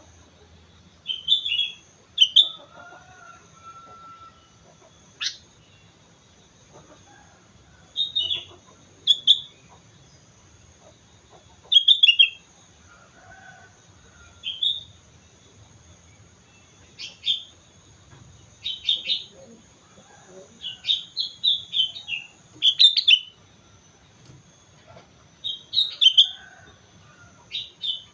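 Sooty-headed bulbul (kutilang) singing: short, bright whistled phrases of a few quick notes, repeated every few seconds, with a faint steady high tone behind.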